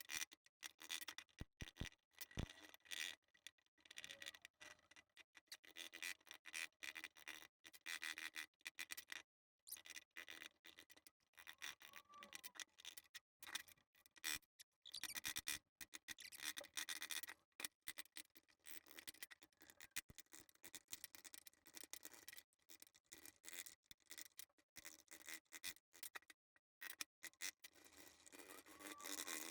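Intermittent scraping and rubbing in short, choppy strokes, broken by abrupt gaps: old crud being scraped off the halves of a Yamaha XT 550 crankcase.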